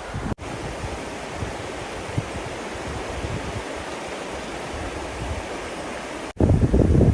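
Steady, even hiss of water, rain or river, cut in abruptly just after the start. Near the end it cuts sharply to loud gusts of wind buffeting the microphone.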